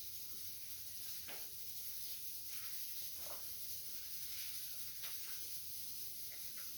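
Steady hiss with a few short, faint budgerigar chirps scattered through it.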